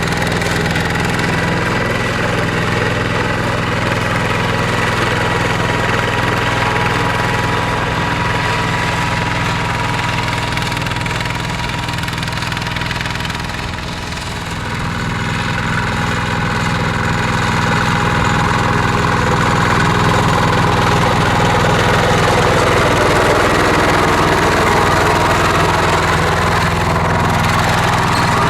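Mini tractor engine running steadily while plowing. It eases off slightly about halfway through, then runs a little louder.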